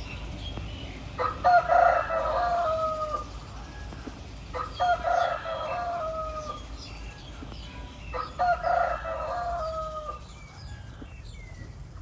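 Rooster crowing three times, a few seconds apart, each crow about two seconds long and trailing off on a falling note.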